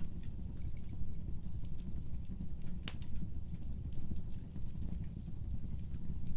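Fire burning in a fireplace: a steady low rumble of flames with scattered crackles and one louder pop about three seconds in.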